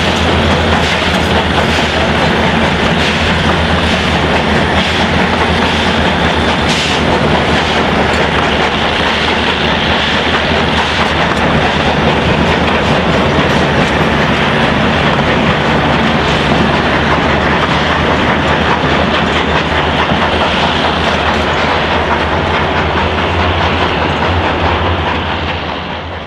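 Passenger cars of a three-foot-gauge train rolling past close by, their wheels clattering steadily over the rails; the sound fades out at the very end.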